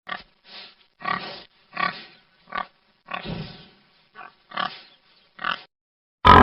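Domestic pig grunting: a run of about ten short, separate grunts.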